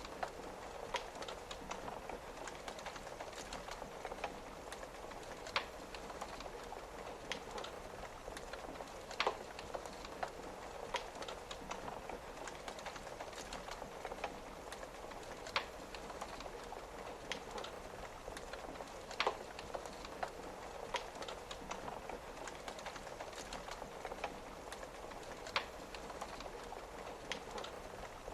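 Wood fire crackling with irregular sharp pops, a loud one every few seconds, over the steady hiss of rain on a window.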